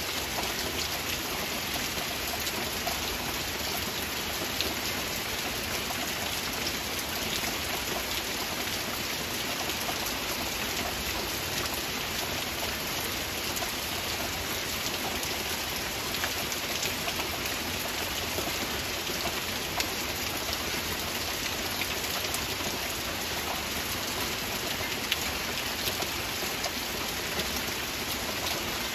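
Steady heavy rain: an even hiss of falling rain, dense with small ticks of individual drops.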